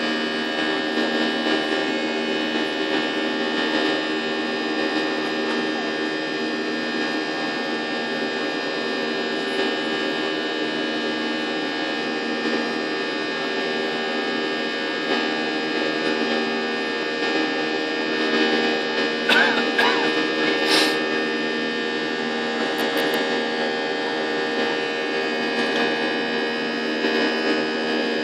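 Jet airliner cabin during the climb after takeoff: the engines and air system give a steady drone made of many steady tones, broken only by a short faint pitched sound and a click about two-thirds of the way in.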